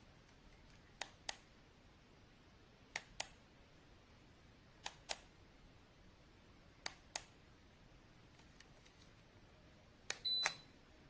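Sharp double clicks repeating about every two seconds, then near the end a quick cluster of clicks with a short, high electronic beep.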